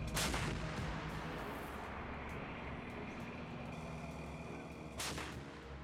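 Two heavy gun blasts from a self-propelled howitzer firing, one just after the start and one about five seconds later, each sudden and dying away over a moment.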